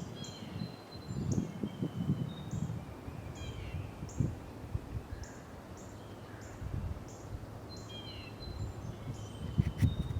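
Small birds chirping in short whistled notes, with a quick high repeated note that keeps coming about twice a second, over an irregular low rumble.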